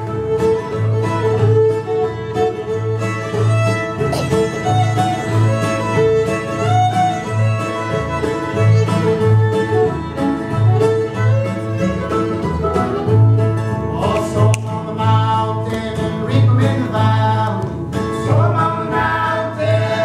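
Old-time string band playing an instrumental tune: fiddle leading over guitar, mandolin and bass, with the bass notes keeping a steady beat.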